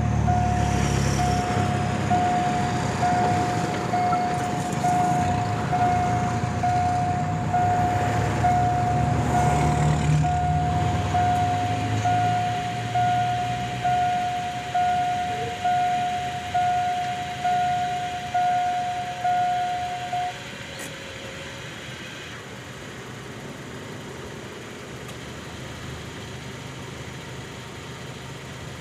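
Level-crossing warning bell ringing about once a second for some twenty seconds and then stopping, over the low rumble of an Alsthom diesel locomotive running past with its train, which fades away about halfway through.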